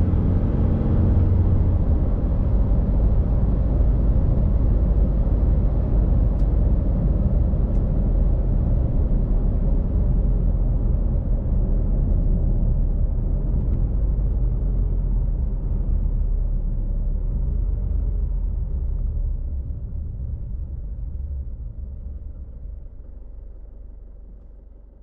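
2022 Isuzu D-Max ute with its 3.0-litre turbo-diesel four-cylinder on the move: a steady low rumble of engine and road noise that fades away over the last several seconds.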